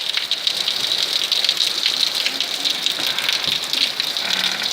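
Heavy rain falling in a steady downpour, a continuous rush of water.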